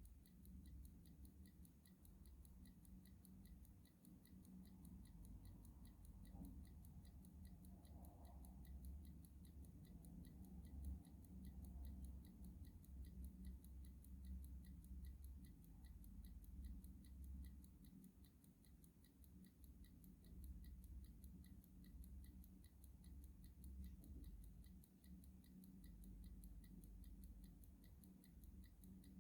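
A clock ticking faintly in an even, unbroken rhythm, over a low steady hum.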